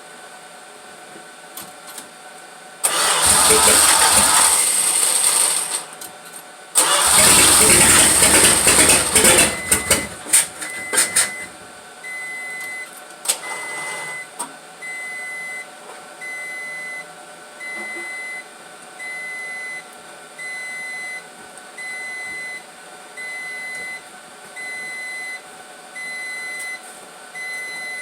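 Starter cranking the 1974 Plymouth Duster's slant-six engine in two bursts of about three seconds each on a cold start attempt, the second one trailing off unevenly. After it, a short electronic beep repeats about once a second.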